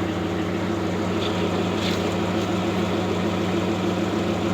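1991 Pontiac Firebird's 3.1 V6 idling steadily through its repaired exhaust, which now has a Flowmaster muffler and new flanges.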